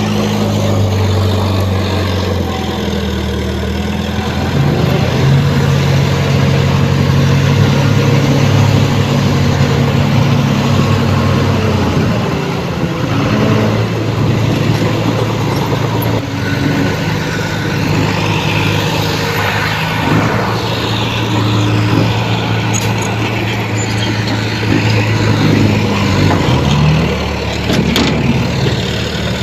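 Heavy diesel earthmoving machinery, a bulldozer at work, running continuously, its engine note dropping and rising several times as the load changes.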